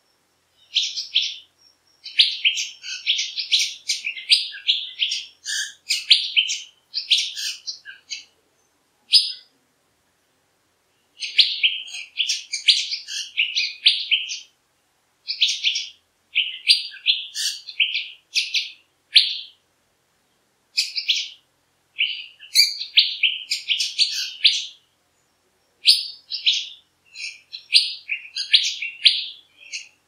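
Birds chirping: rapid runs of short, high-pitched chirps in clusters of a few seconds, broken by brief silent gaps.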